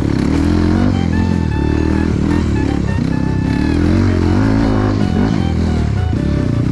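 Trail motorcycle engine running, its revs rising and falling as it is ridden off-road, with background music playing over it.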